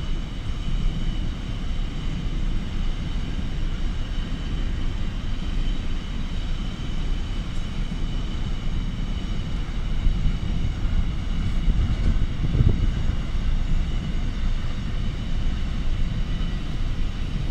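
Long double-stack container freight train rolling past at a steady pace: a continuous low rumble of wagons on the rails.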